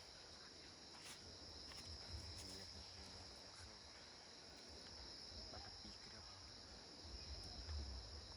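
Faint, steady high-pitched insect chorus, over a low rumble that grows a little stronger near the end.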